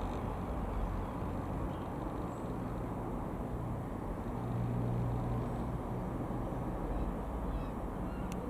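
Steady low rumble of a jet airliner's engines, with a low hum that swells about four to five seconds in.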